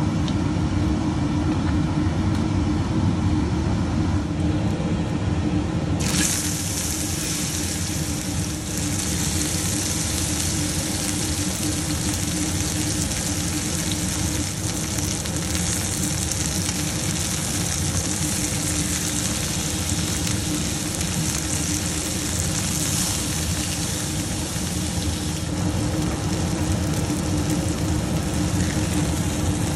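Seasoned chicken breasts sizzling in hot olive oil in a skillet, searing until golden; the steady sizzle starts abruptly about six seconds in, over a low steady hum.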